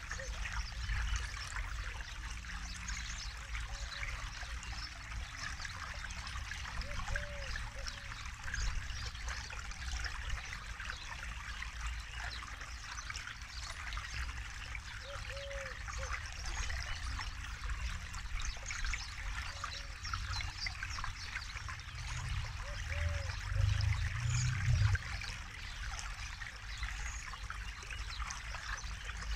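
Forest river flowing steadily, a continuous trickling, babbling rush of water with a low rumble underneath that swells briefly near the end.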